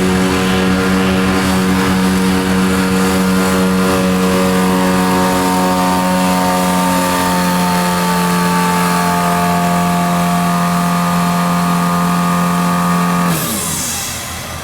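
A pulling truck's engine held at high revs under full load as it drags the sled, its pitch sagging slowly as the load builds. About thirteen seconds in, the engine is let off and the revs fall away sharply.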